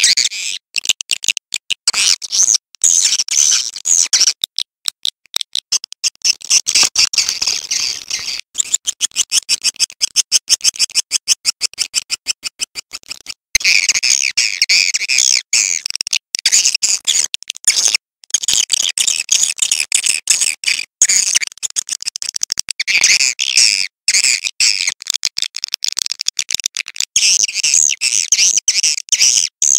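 Swiftlets chirping in a dense, continuous stream of rapid high twittering calls. A run of very fast, evenly spaced clicking pulses comes about a third of the way in.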